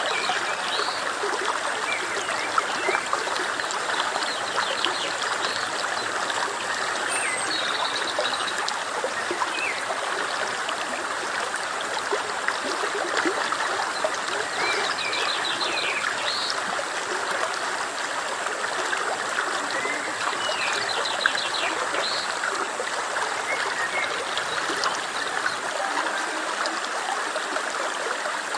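A stream running steadily over stones, a constant babbling rush, with short high chirps scattered through it.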